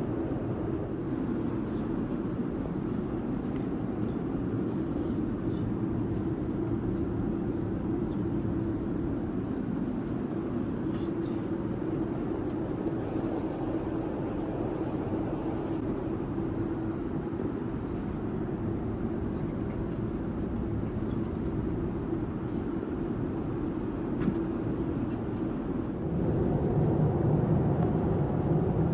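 Steady in-flight cabin noise of a Boeing 787-9 airliner: an even rushing hum with a constant drone underneath. It grows louder and deeper about 26 seconds in.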